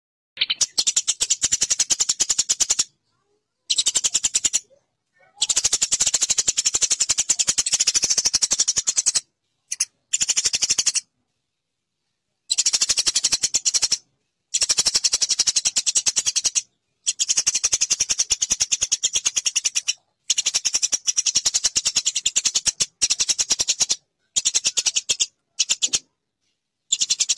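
Eurasian tree sparrows chirping in rapid, continuous strings of high chirps. The chirping comes in bursts of a few seconds that cut off abruptly into dead silence, as in an edited song-training recording.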